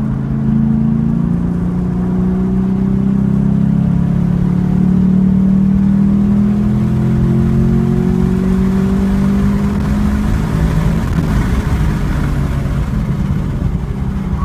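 2014 Camaro SS 1LE's V8 at full throttle in third gear, heard from inside the cabin, its pitch rising steadily as it pulls from about 3,300 to over 5,600 rpm. About ten seconds in the driver lifts for the next corner and the steady engine note gives way to a rougher, falling sound as the car slows.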